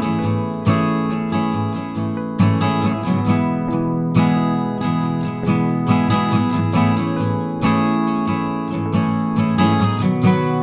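Background music: strummed acoustic guitar chords with a regular rhythm.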